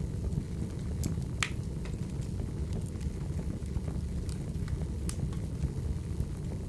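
Firewood burning: a steady low rumble of flames with scattered sharp crackles and pops, the loudest about one and a half seconds in.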